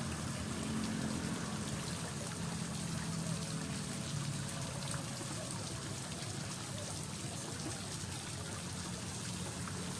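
Water gurgling and trickling steadily, with small drips and splashes over a low rumble.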